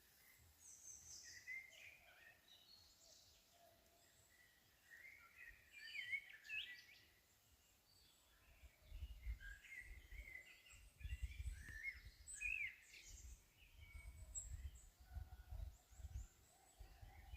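Faint forest birdsong: several birds chirping and calling in short, scattered notes. From about halfway in, irregular low rumbling comes and goes under the calls.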